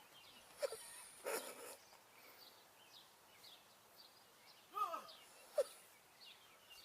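Faint outdoor sounds: a dog gives one short yelp falling in pitch about five seconds in, among scattered faint high chirps and a few brief knocks or rustles.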